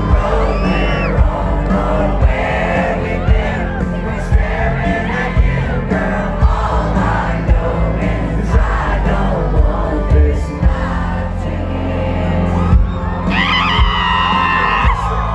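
Live country concert music heard from within the crowd: full band with heavy bass and a steady drum beat, a singer's voice and the crowd singing along. Near the end a loud voice close by sings out over the band.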